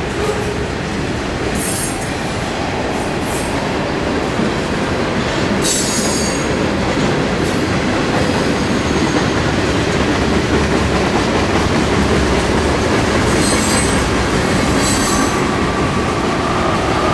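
Long mixed freight train's cars rolling past: a steady, loud rumble of steel wheels on rail, broken by a few short high-pitched wheel squeals.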